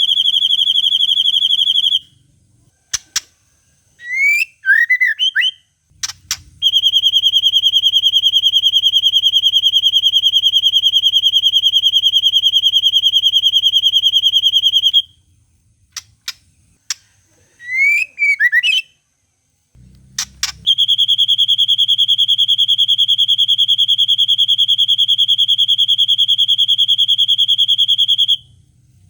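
Long cililin calls played as a bird-training track: a steady, rapidly pulsed high trill, held first for about 2 s, then twice more for about 8 s each. Between the trills come short rising and falling chirp phrases and a few sharp clicks.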